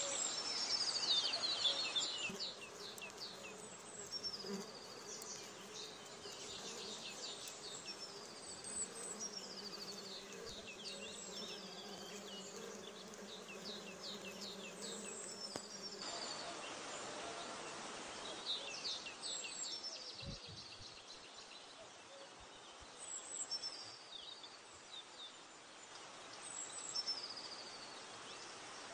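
Small birds chirping repeatedly, with a low steady buzz like an insect's wings from about two seconds in until about halfway through.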